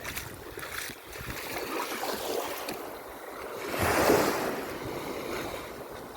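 Sea waves breaking and washing up the beach, one wave swelling loudly about four seconds in and fading away. Wind is heard blowing on the microphone.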